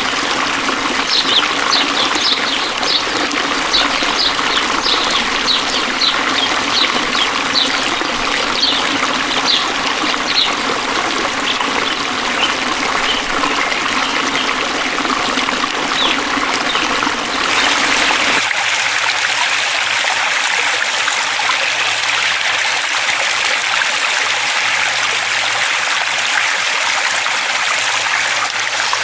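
Stream water flowing and trickling, a steady rushing hiss. Through the first half a high chirp repeats about twice a second, then fades out; about 18 seconds in, the sound switches abruptly to a brighter, hissier rush of water with the low rumble gone.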